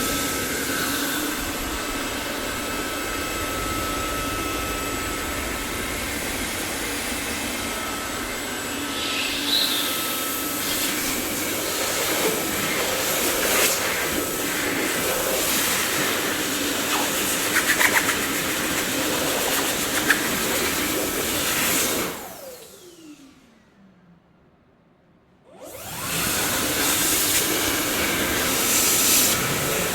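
Dyson vacuum cleaner running with a steady whooshing motor noise and a few brief rattles. About 22 seconds in it is switched off and the motor winds down with a falling whine to near silence, then it is switched back on some three seconds later.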